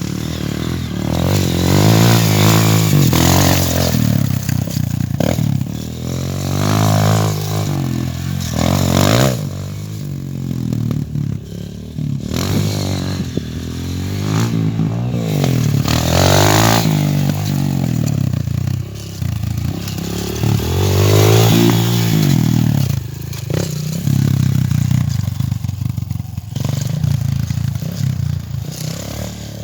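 A 230 cc dirt bike engine being ridden, revving up and dropping back over and over as the rider accelerates and shifts, the pitch rising and falling several times.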